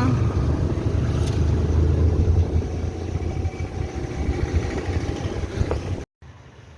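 Low, steady rumble of a moving motor vehicle's engine and road noise. It cuts off abruptly about six seconds in, leaving a much quieter background.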